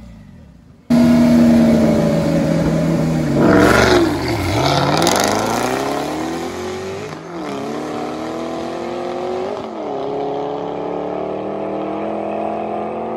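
Car engine starting loud about a second in, its revs dropping and climbing again near four seconds. It then pulls steadily under acceleration, with brief dips about seven and nine and a half seconds in, like gear changes, the pitch climbing slowly between them.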